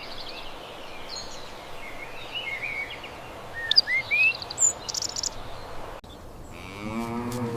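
A wild bird chirping, with short rising calls and a brief buzzy trill over a steady outdoor background hiss. The recording breaks off about six seconds in, and near the end a cow starts mooing.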